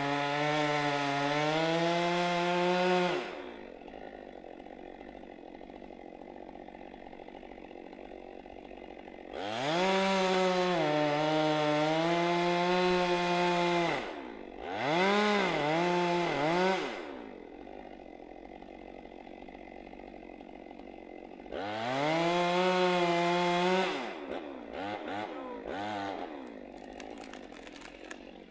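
Two-stroke chainsaw revving to full throttle in four bursts, dropping to a quiet idle between them; the pitch sags and recovers within the bursts. A few short blips of throttle follow near the end.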